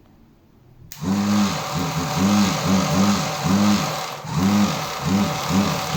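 An electric motor starts abruptly about a second in and runs with a loud hum and hiss, its pitch rising and falling about twice a second as its speed wavers.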